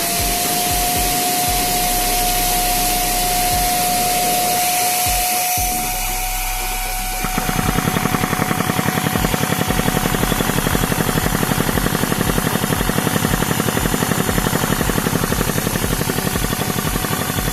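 Lego diesel engine model running: a motor whine spins up and holds at a steady pitch. About seven seconds in, a fast, even rhythmic clatter joins it.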